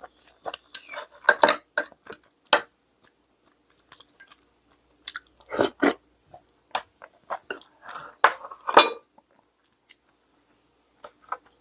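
A person eating close to the microphone: chewing and biting with crunches now and then, and utensils clicking against dishes in scattered short knocks.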